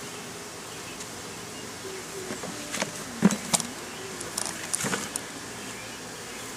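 Honeybees buzzing around an opened hive, a steady hum with individual bees droning past. A few sharp knocks and clicks come in the middle, the loudest about three seconds in.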